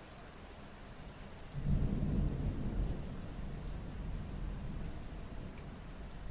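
Rain falling, with a roll of thunder that comes in suddenly about a second and a half in, is loudest for about a second, then eases into a low rumble.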